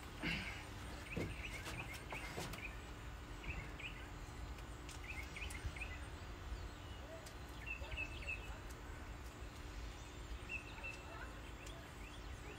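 Scattered short, high chirps from small birds, with a few sharp clicks in the first couple of seconds over a steady low rumble.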